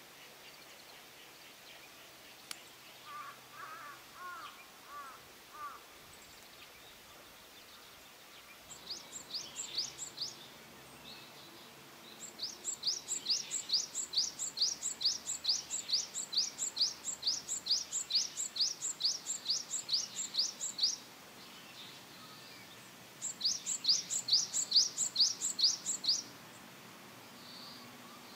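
Songbird singing long trills of rapid, repeated high downslurred notes, about four a second, in three runs, the longest lasting about nine seconds. A few lower, separate calls come about three to six seconds in.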